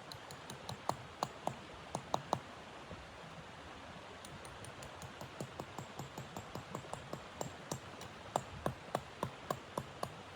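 Wood fire crackling: irregular sharp pops and snaps over a steady hiss, coming thicker in the second half.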